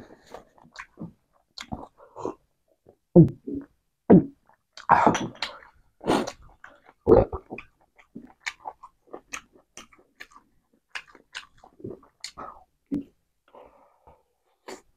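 Close-miked eating sounds: a person chewing chicken and rice by hand, with irregular wet mouth clicks and smacks. There are several louder noisy sounds between about three and seven seconds in.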